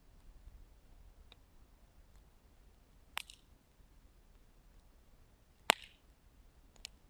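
Wood fire burning low, with a faint low hum and four sharp crackling pops spread a second or more apart, the third the loudest.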